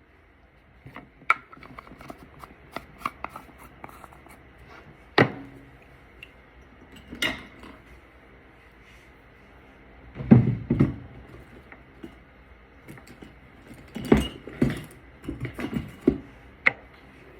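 Handling noises: a series of light clicks and taps, with louder knocks about ten seconds in and a cluster of them near the end, as makeup containers and brushes are picked up, opened and set down.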